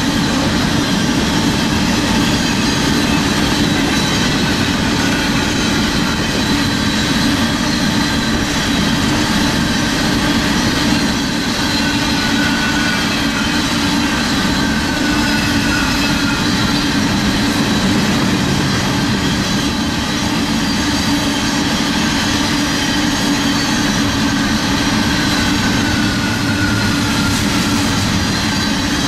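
Empty BNSF coal train rolling past at speed: a steady, loud rumble of steel wheels on rail, with thin high squealing tones from the wheels that drift and slowly slide down in pitch.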